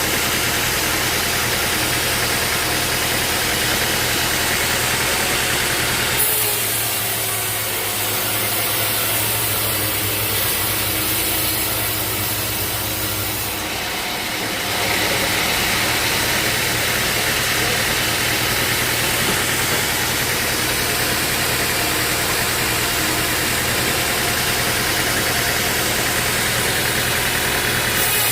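Sawmill engine running steadily, its sound changing abruptly about six seconds in and again around fourteen seconds.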